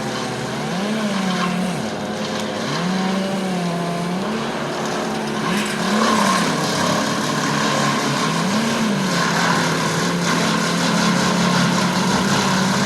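Chainsaw running at high revs, its pitch rising and dropping every second or two as it is throttled and loaded while bucking up the trunk of a felled tree.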